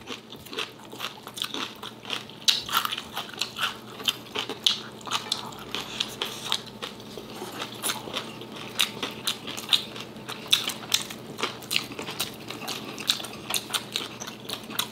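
Two people chewing food close to the microphone, with many irregular crunches and wet mouth clicks.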